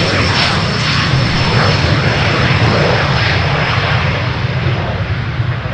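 Business jet's engines at high power during take-off, a loud steady rushing rumble with a thin high whine over it, easing slightly near the end.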